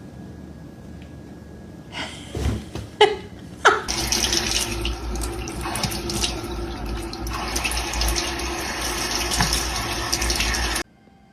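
A few knocks and clatter, then a steady rush of running water, like a tap running into a sink, for about seven seconds before it stops suddenly.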